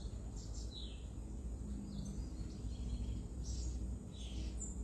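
Birds calling in several short, downward-sliding chirps over a steady low rumble of outdoor background noise.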